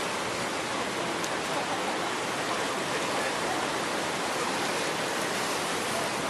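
Steady, even hiss of water at the beach, with no single splashes or gusts standing out.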